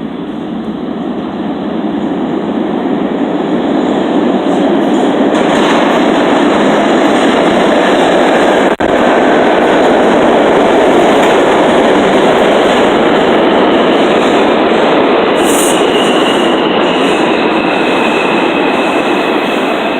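New York City subway train running through the station: a loud, steady rumble of wheels on rail that builds over the first few seconds and holds, with a faint high whine joining near the end.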